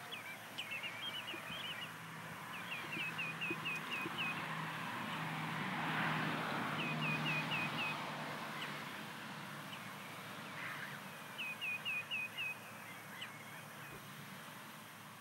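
A small bird singing short runs of five or six quick chirps, four times over. A road vehicle passes in between, its sound swelling to its loudest about six seconds in and then fading.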